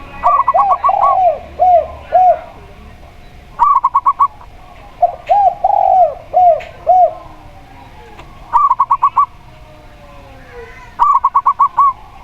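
A zebra dove and a spotted dove cooing by turns: quick runs of five or six short, higher coos, and slower runs of three or four lower, arched coos, repeated about three times.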